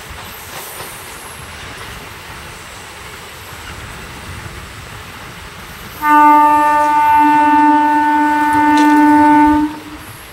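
Electric multiple-unit train running along the track, then a train horn sounds about six seconds in: one long, steady blast of about three and a half seconds, louder than the running noise, before it cuts off.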